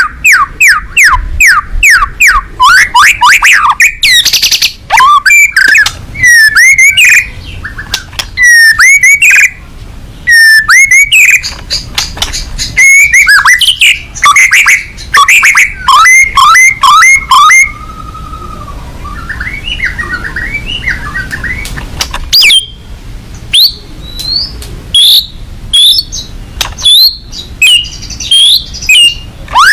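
White-rumped shama (murai batu) singing loudly and without let-up: fast runs of repeated rising whistles, then varied phrases of sweeping notes and sharp chips. Near the middle the song thins to a few quieter notes for several seconds, then resumes.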